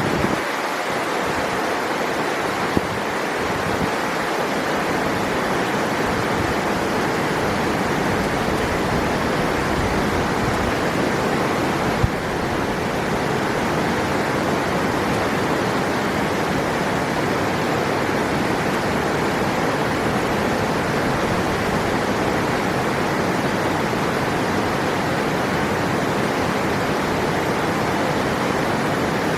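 A river rushing steadily over rocks, an even water noise with no change. There is one brief click about twelve seconds in.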